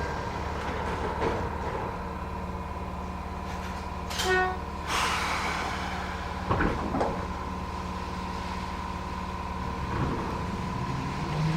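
Matsumoto Electric Railway 3000 series electric train running, heard from inside the car: steady wheel-on-rail and motor noise. A brief horn blast sounds about four seconds in, a couple of knocks follow a few seconds later, and a low tone rises near the end.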